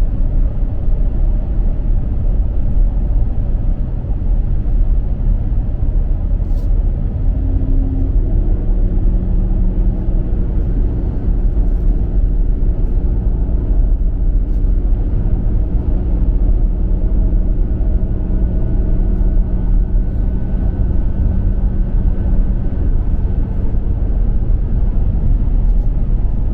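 Steady road noise of a car driving at highway speed, heard from inside the cabin: a loud low rumble of tyres and engine, with a faint hum joining about eight seconds in.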